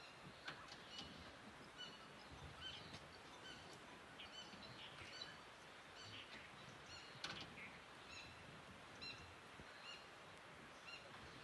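Faint small-bird chirps, short calls repeated roughly once a second, over a low steady background hiss.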